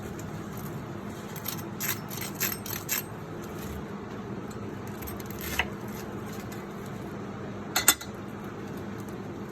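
Kitchen dishes and utensils clinking: a quick run of light clinks in the first few seconds, one more in the middle and a close pair near the end, over a steady low background hum.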